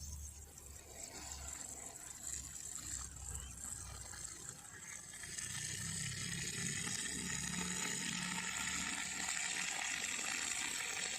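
Running water, a steady rushing that grows louder about five seconds in.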